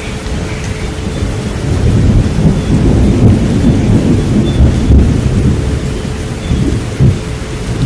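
Steady rain with a low rolling rumble of thunder that swells a couple of seconds in and eases toward the end, under a steady pure tone near 432 Hz.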